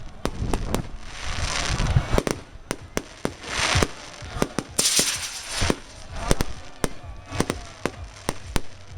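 Firecrackers going off in rapid, irregular sharp bangs, mixed with several longer hissing bursts of fireworks.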